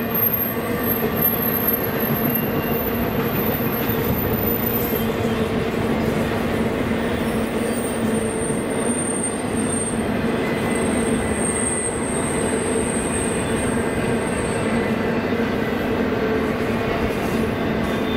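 Intermodal freight cars with stacked containers rolling past at steady speed: a continuous rumble of steel wheels on rail. A thin high wheel squeal comes in about seven seconds in and fades out around fifteen seconds.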